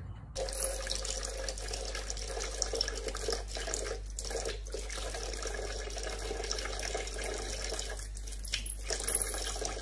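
Steady running water, like a tap running, with a low hum underneath; it starts abruptly just after the start and cuts off at the end.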